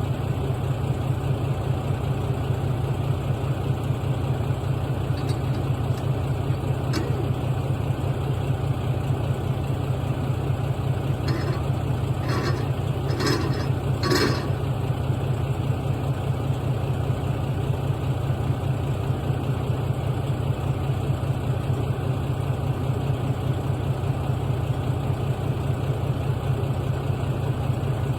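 Heavy diesel truck engine idling steadily, with an even low pulsing. Four short, sharp sounds come in quick succession about halfway through.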